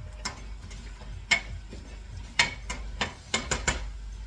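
A cooking utensil knocking and clinking against cookware during stirring, about eight sharp clinks spread unevenly, the loudest a little over a second in and again past two seconds.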